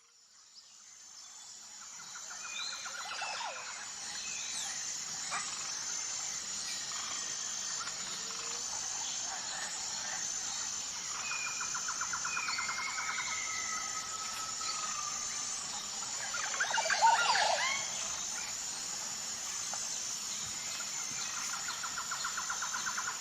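Several birds singing, fading in over the first two seconds: a rapid trill that comes back about every nine seconds, scattered whistled notes and glides, and a louder burst of calls about 17 seconds in, over a steady high-pitched pulsing chorus.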